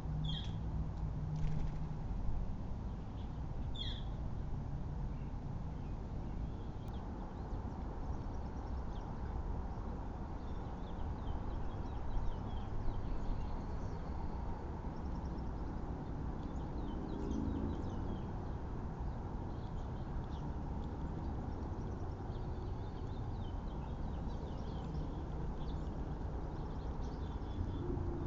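Outdoor backyard ambience: a steady low rumble with a few short bird chirps, two clearer ones in the first few seconds and fainter ones later on.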